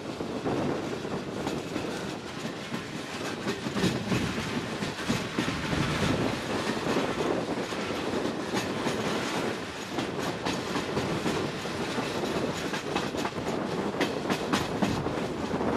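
Regional train rolling through a yard of switches, heard from a carriage window: its wheels clatter over rail joints and points in irregular clacks and knocks above a steady rumble.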